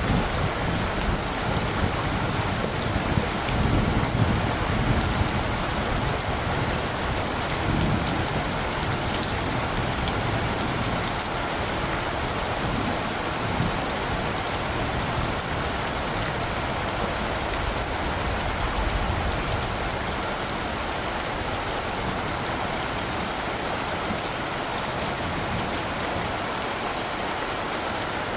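Steady rain falling, an even hiss with fine drop patter. A low rumble of distant thunder swells in the first half and dies away after it.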